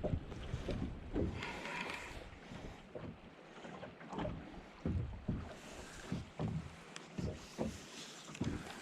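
Irregular light knocks and thumps in a small boat, over faint wind and water noise.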